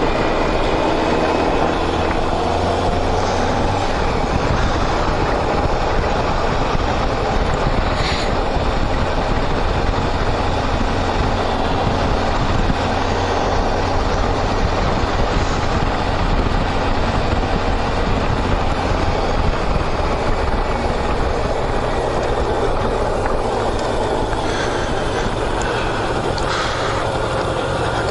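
Steady engine drone and wind and road rush of a vehicle travelling at a constant speed, heard from on board.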